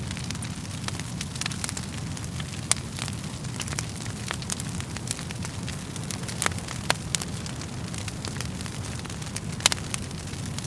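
Wood fire burning in a fireplace: a steady low rumble of flames with irregular sharp crackles and pops of burning logs, a few louder snaps among them.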